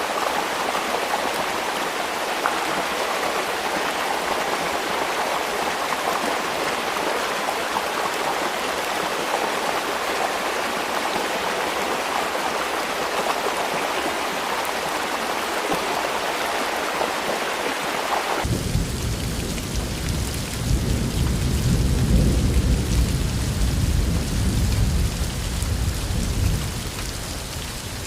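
Steady rain hiss; about two-thirds of the way in it changes abruptly to a thunderstorm, a deep rolling thunder rumble under the rain, loudest a few seconds later and easing near the end.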